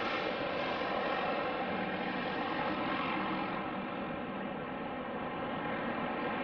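Propeller aircraft in flight, its engines running with a steady, even-toned drone whose high end slowly fades.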